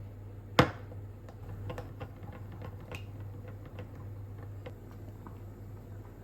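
Kitchen utensils clacking while food is prepared: one sharp clack about half a second in, then light scattered clicks and taps, over a steady low hum.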